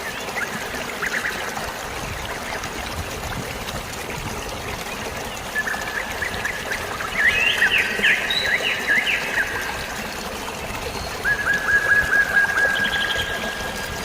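Steady rush of flowing water, like a stream or small waterfall, with birds chirping over it: a brief bout of chirps near the start, a busier tangle of calls in the middle, and a trilled series of notes near the end.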